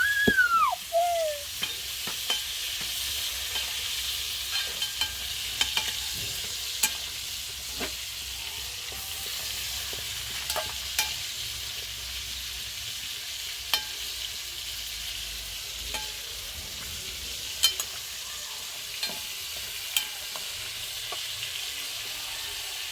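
Food frying in a hot pan: a steady sizzle with scattered sharp clicks, like a utensil knocking against the pan. A short high cry, rising then falling, comes at the very start.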